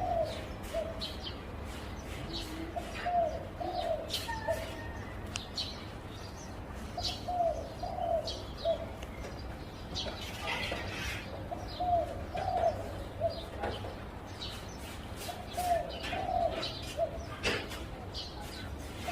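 Zebra dove cooing: a short run of soft, staccato coo notes, repeated about every four seconds. Scattered short, sharp high chirps sound between the phrases.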